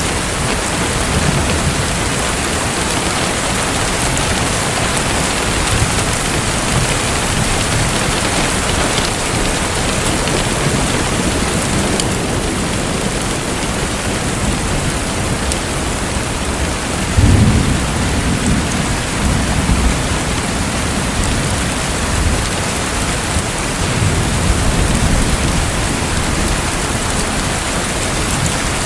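Steady rain hiss with low rumbles of thunder, one swelling about halfway through and another a few seconds later.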